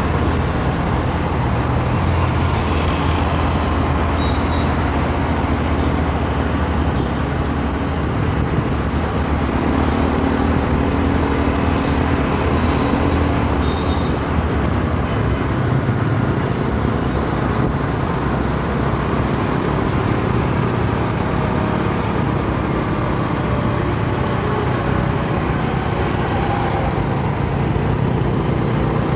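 City road traffic: a steady dense roar of engines and tyres, with engine hum, and a few short high-pitched beeps about four seconds in and again around fourteen seconds.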